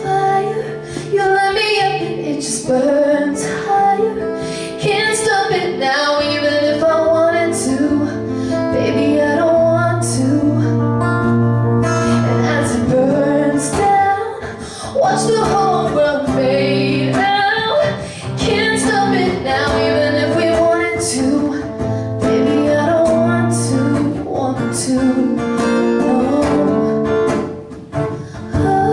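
Live acoustic guitar strumming, with a woman singing long, bending vocal lines over it.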